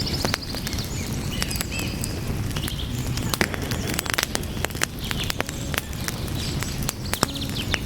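Burning wood crackling with frequent sharp pops over a steady low rumble. Short high chirps are scattered through.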